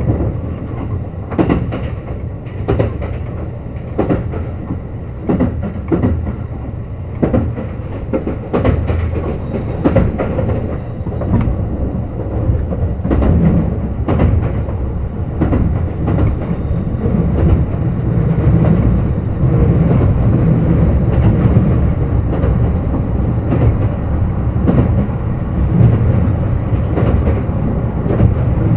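Kintetsu Urban Liner Plus (21000 series) limited express running at speed: a steady rumble of wheels and running gear with sharp clacks over rail joints. The clacks are frequent in the first half, and the rumble grows louder past the halfway point.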